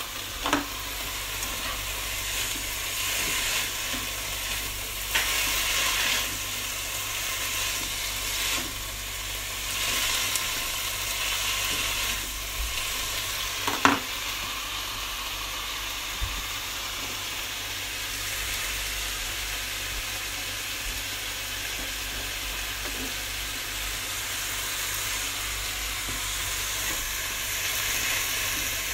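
Sliced beef with onion and red bell pepper sizzling in a frying pan while a spatula stirs it, the hiss swelling with each stir. A few sharp knocks cut through, the loudest about fourteen seconds in.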